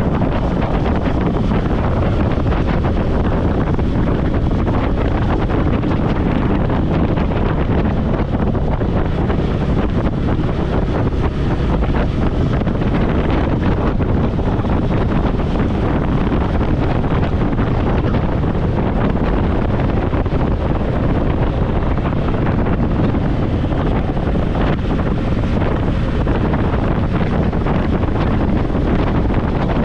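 Steady wind rushing over a helmet-mounted microphone on a moving motorcycle, with the bike and traffic running underneath it.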